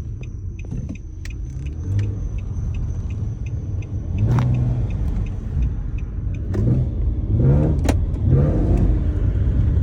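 Car being driven, heard from inside the cabin: a steady low rumble with faint light ticks about twice a second. The car has deer carcass remains lodged under its exhaust, and the driver feels it scrubbing on something underneath.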